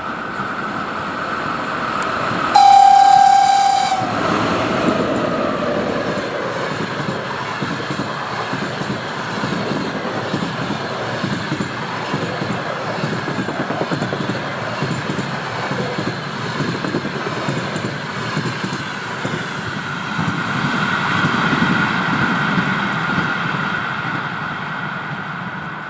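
VL80T electric locomotive sounding one loud, steady horn blast a little over a second long, about three seconds in. It is followed by the steady rumble of the train's passenger coaches running past on the rails.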